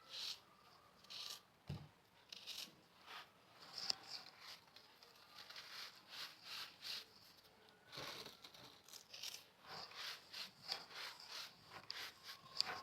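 Crunchy salt being crushed: a run of short, crisp crunches and crumbles at an uneven pace, easing off for a couple of seconds midway, then coming thicker and faster toward the end.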